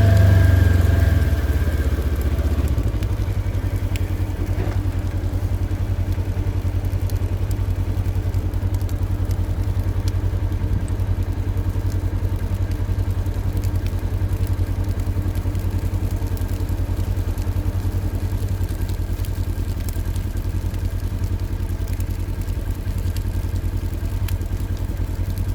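Motor vehicle engine running steadily at idle, a low even rumble that eases slightly about two seconds in and then holds.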